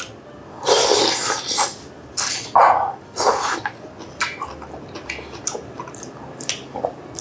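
Close-miked eating of glass-noodle and bean sprout japchae: slurping and wet chewing in irregular bursts, with a longer slurp about a second in and smaller mouth clicks in the second half.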